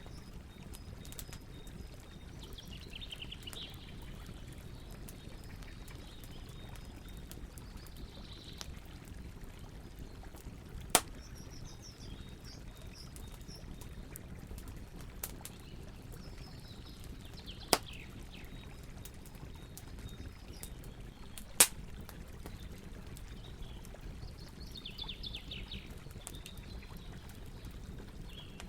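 Campfire burning with a low steady rushing noise and scattered crackles, three sharp pops standing out above the rest. Birds chirp every few seconds in the background.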